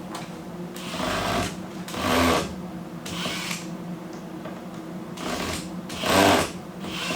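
Drill gun driving screws in short bursts, about five runs, the loudest about two seconds and six seconds in, over a steady low hum.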